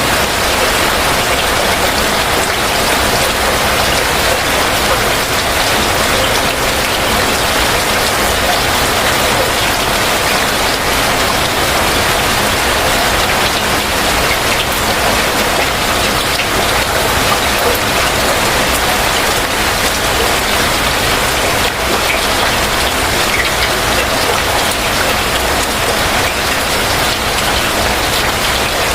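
Heavy rain falling steadily, a dense unbroken patter with no letup.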